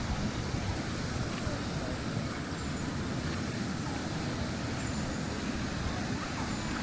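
Steady outdoor ambient rushing noise, mostly a low rumble, with a few faint short chirps over it.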